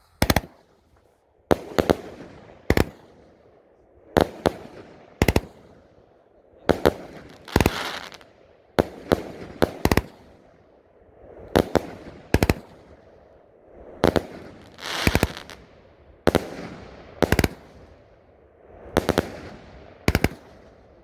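Fallen Angel 30-shot fireworks cake by Competition Fireworks firing its shots in sequence: sharp bangs about every second or so, often in close pairs, each followed by a fading hiss and crackle as the willow shells break.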